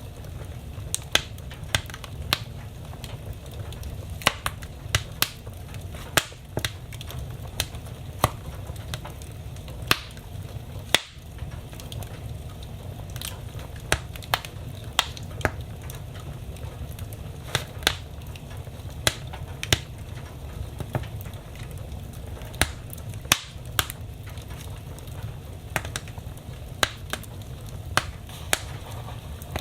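Wood fire crackling in a fireplace: irregular sharp pops and snaps, about one or two a second, over a steady low rumble.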